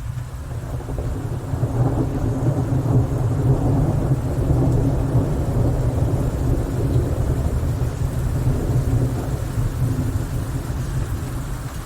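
Thunder rolling in a rainstorm: a low rumble that builds over the first couple of seconds and keeps rumbling, with rain falling.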